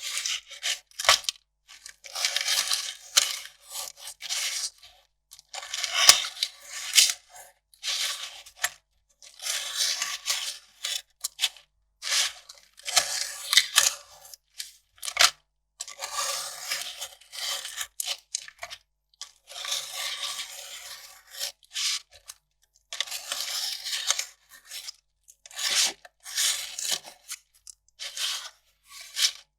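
Kraft paper being ripped by hand, a series of tearing strokes about a second or two each with short pauses between them.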